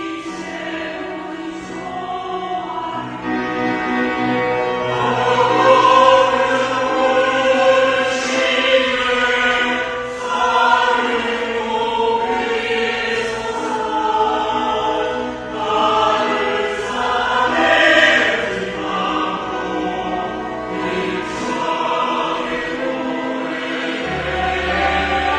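Church choir singing an anthem in sustained, flowing phrases, with steady held low notes beneath the voices.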